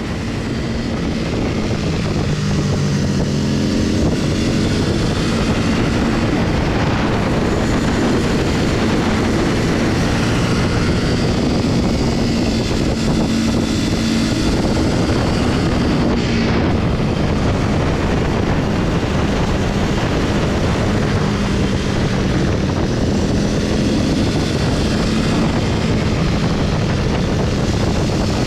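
Motorcycle engine running under way with wind rushing over the microphone. It grows louder over the first few seconds, then holds fairly steady with small shifts in engine pitch.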